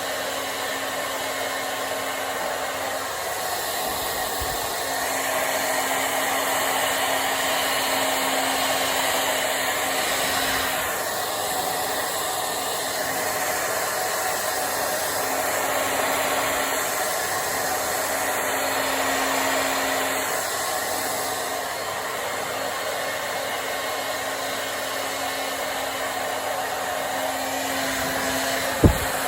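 Handheld hair dryer blowing steadily, a rushing air noise over a steady motor hum, getting a little louder and softer as it is moved through the hair. A single sharp click sounds just before the end.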